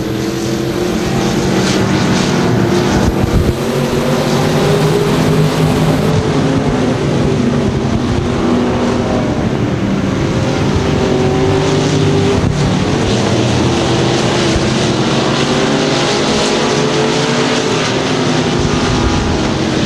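Several IMCA stock cars' V8 engines racing around a dirt oval, their overlapping engine notes rising and falling as the cars accelerate and lift through the turns.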